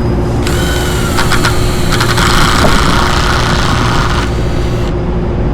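Cordless drill running for about four seconds, driving a motor-mounting screw, its whine shifting partway through as the screw bites, with a few sharp clicks. A steady low hum underlies it throughout.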